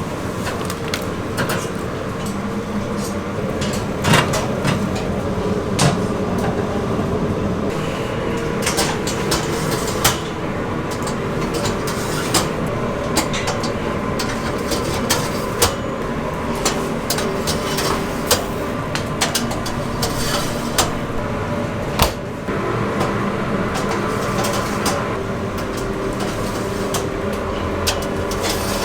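Commercial kitchen at work: a steady mechanical hum, as of ventilation or cooking equipment, with irregular clicks, knocks and clatter of utensils and pans.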